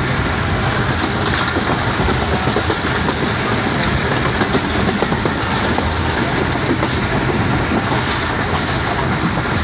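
Passenger train running steadily along the track, heard from inside a carriage at the window: the loud, continuous run of the wheels on the rails.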